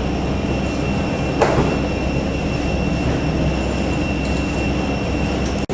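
Steady ride noise inside a moving vehicle: a low rumble and hiss with a thin high whine, and a single knock about a second and a half in.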